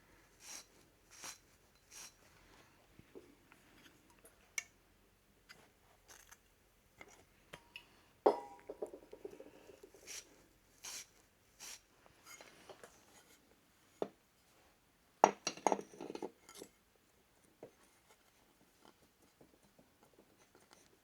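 Metal engine parts clicking and clinking as the flywheel is worked onto the Moto Morini's shaft. There are a few rubbing strokes near the start, a clang with a short metallic ring about eight seconds in, and a flurry of knocks about fifteen seconds in.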